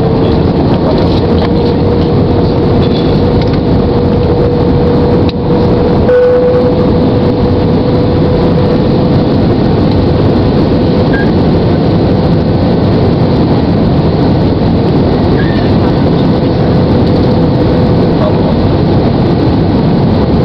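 Airbus airliner's cabin noise: a loud, steady roar of jet engines and rushing air with a steady whine held throughout, as heard by a passenger on the approach to landing.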